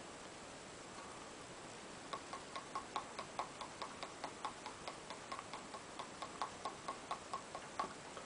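Light, rapid clicking, about four clicks a second, starting about two seconds in: a hand puppet's jaws clacking its teeth together.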